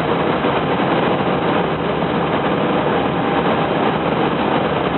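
Steady cockpit noise of an Airbus A320 on approach: an even, constant rush with no distinct events.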